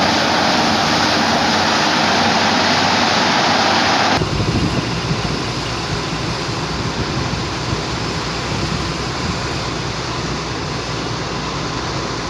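Tata Hitachi excavator's diesel engine running under a loud rushing noise. About four seconds in, the sound changes abruptly to a lower, steadier engine rumble.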